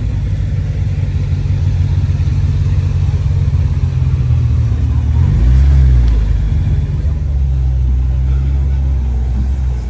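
Car engine running close by with a steady low hum, rising in pitch and loudness for a moment about five seconds in before settling back.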